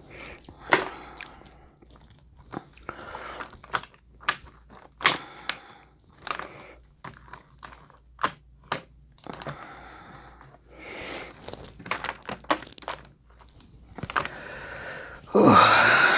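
Close-miked eating of crab legs: a string of sharp cracks and snaps as the shells are broken open, with chewing between them and a louder, longer noise near the end.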